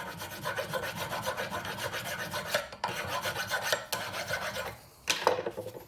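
Hand file rasping back and forth on a metal brake caliper bracket, filing off high spots. The strokes run steadily, pause briefly near the end, then a few more strokes follow.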